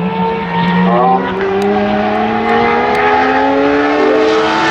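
V12 supercar engine accelerating hard. After a brief break about a second in, its pitch climbs steadily through one long pull.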